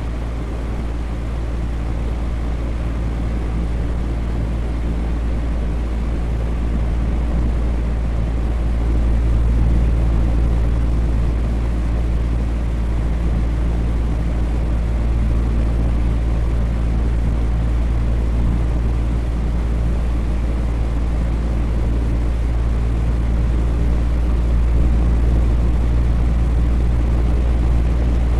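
Electric fan running steadily: an even, low-pitched rush of air with a faint steady motor hum under it.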